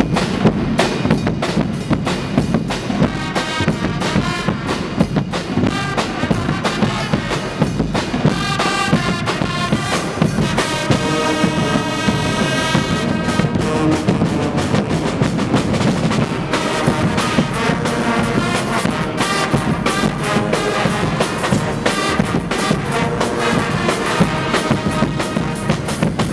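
Guggenmusik carnival band playing: brass with trumpets and trombones over a steady beat of drums and cymbals, with a long held chord about halfway through.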